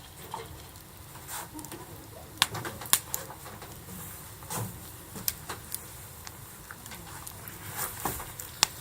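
Wood campfire crackling, with sharp pops from the burning wood scattered irregularly, the loudest about two and a half and three seconds in and again near the end.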